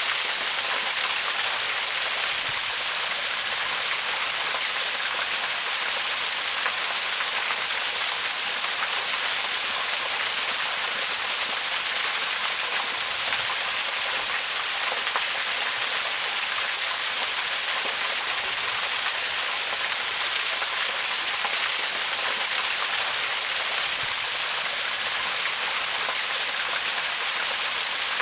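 Waterfall: water falling and splashing in a steady, unbroken rush, weighted toward the high end, with no change in level.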